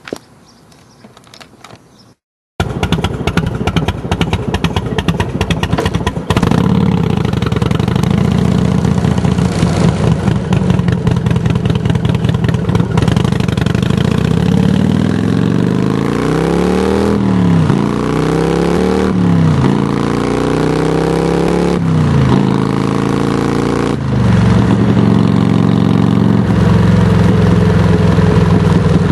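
Harley-Davidson touring motorcycle's V-twin engine through Samson Silver Bullet mufflers, loud. It comes in after a brief quiet about two seconds in and settles into a steady run. It is revved in several quick blips in the second half, then goes back to a steady idle.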